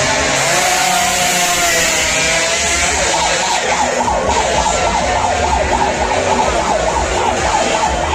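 Racing motorcycle engines running at high revs, their pitch rising and falling; from about three seconds in, several engines are heard at once with quickly wavering pitch.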